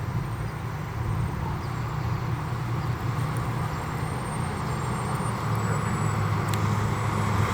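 A vehicle engine running with a steady low hum, slowly growing louder.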